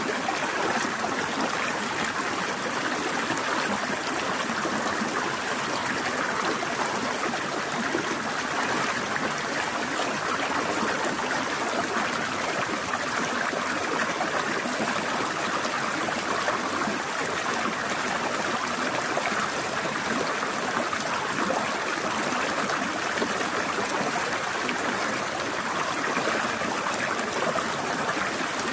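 Steady rushing and trickling of a small forest stream flowing over rocks, with no breaks or changes.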